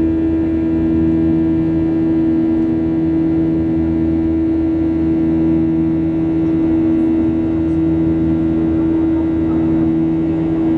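Steady engine drone and airflow inside the cabin of a Boeing 737-700 in flight, from its CFM56-7B turbofans: a constant low hum with several steady tones under a rushing hiss, unchanging throughout.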